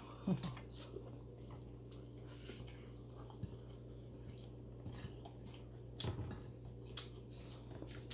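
Close-up eating sounds of grilled chicken and rice eaten by hand: soft chewing and scattered small mouth clicks and smacks, a cluster of them about six seconds in, over a steady low hum.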